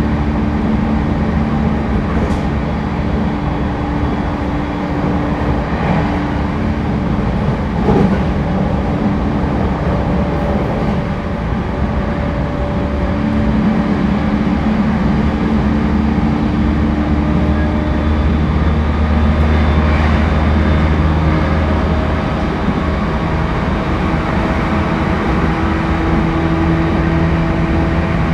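Interior running sound of a JR East E231-1000 series commuter train at speed: a steady rumble of wheels on rail with a few steady hums, one of them rising slowly in pitch during the second half.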